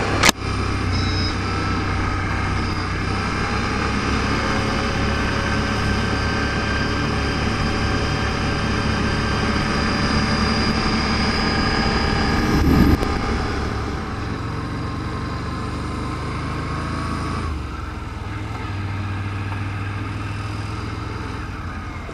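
ATV engine running steadily while riding a trail. The engine note swells and dips briefly about thirteen seconds in, then settles quieter about seventeen seconds in.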